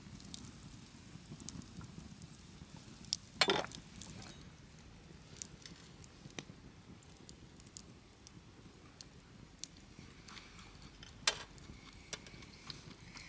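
Wood fire crackling in a folding fire pit, with scattered small pops and two louder sharp cracks, one a few seconds in and one near the end.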